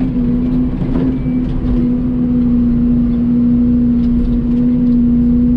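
Mini excavator's diesel engine running steadily at working speed, a constant loud hum that lifts slightly a couple of seconds in.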